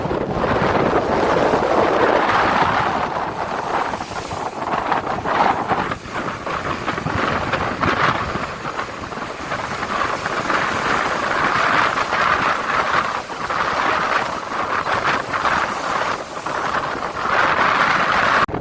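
Strong wind blowing over the microphone: a loud, steady rushing noise that swells and dips in gusts.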